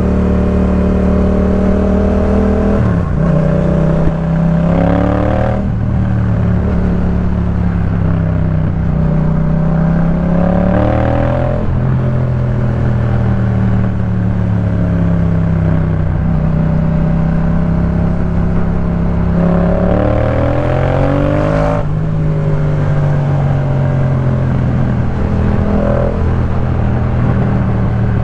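Yamaha MT-07's parallel-twin engine through a Jeskap K4 full aftermarket exhaust, ridden at a steady cruise with three spells of acceleration. Each rise in pitch ends in a sudden drop at a gear change.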